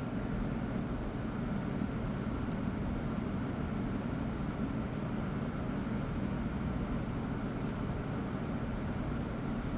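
Steady low mechanical hum and rumble of machinery running, unchanging throughout.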